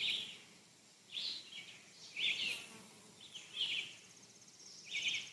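A bird giving short raspy chirps over and over, about one a second, against a quiet outdoor background, with a faint high rapid trill near the end.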